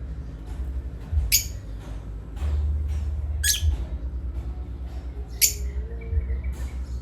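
Pet parrot giving three short, sharp squawks about two seconds apart, over a steady low rumble.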